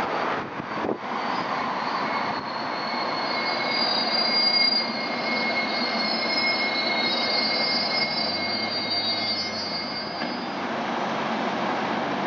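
SEPTA Silverliner IV electric commuter train running into the station, its wheels rumbling on the rails. A high-pitched squeal of several tones runs from about two seconds in to about ten seconds.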